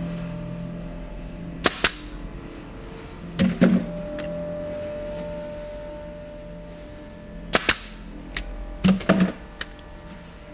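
Pneumatic nail guns being triggered one after another: sharp clacks, mostly in quick pairs, in several groups spread over the few seconds, over a faint steady hum.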